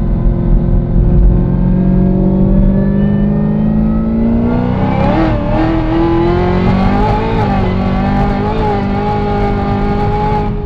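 Supercharged V8 of a ZL1 Camaro under hard acceleration, heard from inside the cabin. The engine note climbs steadily for about four seconds, then wavers unevenly as traction control reins in wheelspin on the drag radials. It then holds a high, steady note.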